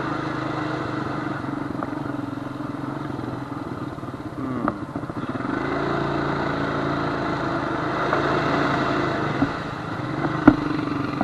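Honda FourTrax quad's engine running under way on a dirt trail, its note rising as it picks up revs about five to six seconds in, with a couple of sharp knocks from the ride.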